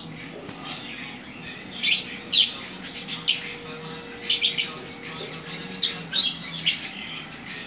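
Pet-shop birds calling: short, harsh, high chirps and squawks coming in quick clusters, over a steady low hum.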